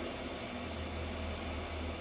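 Steady low hum with an even hiss and a thin, steady high-pitched tone: background noise of the recording.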